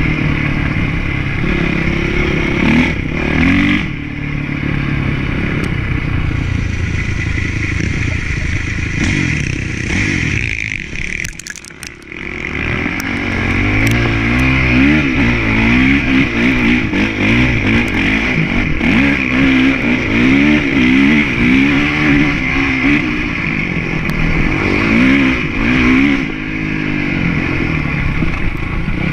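Motocross bike engine revving up and down repeatedly as it is ridden hard. The throttle eases off briefly about twelve seconds in, then the engine climbs and drops through the revs again.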